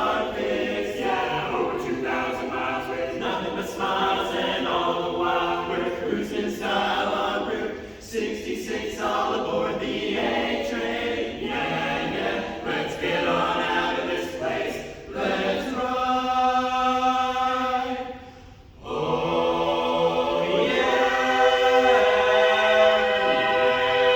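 An a cappella vocal group singing close jazz harmony without recognisable words: short, rhythmic sung notes at first, then long held chords from about two thirds of the way in, broken by a brief gap.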